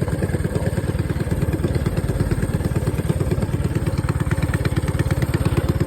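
Mini bike's small engine running steadily while cruising, with a fast, even pulse.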